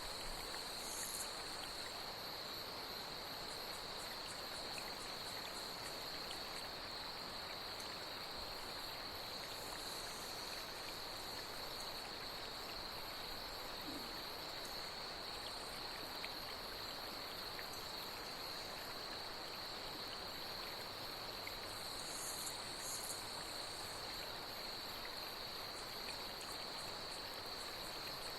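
Night insects, cicadas, trilling steadily in one high, unbroken note over the even rush of a flowing stream, with a few brief higher chirps now and then.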